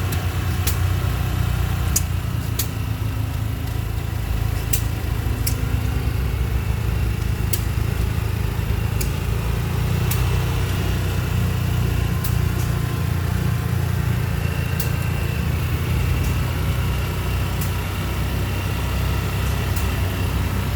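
A small engine running steadily with a low rumble, with scattered sharp clicks and ticks over it.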